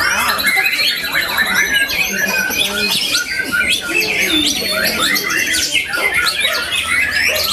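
White-rumped shama (murai batu) singing a continuous, fast run of short, varied chirps and harsher notes, in the style of a long-tailed shrike (cendet) song.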